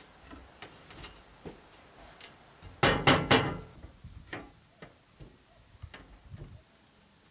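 Scattered light clicks and knocks, with three louder knocks in quick succession about three seconds in, from hand work with wood and tools.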